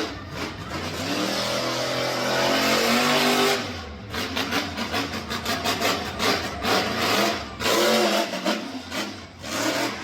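Monster truck engine revving hard, its pitch rising and falling repeatedly, with a run of quick throttle pulses in the middle and brief drops in level around the fourth and eighth seconds.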